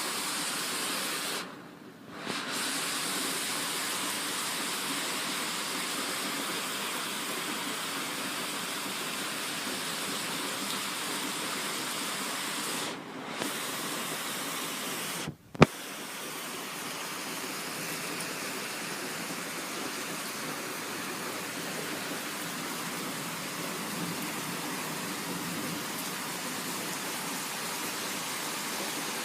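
Heavy thunderstorm rain pouring down as a steady hiss, with brief dropouts about two seconds in and near the middle, and a sharp click just after the middle.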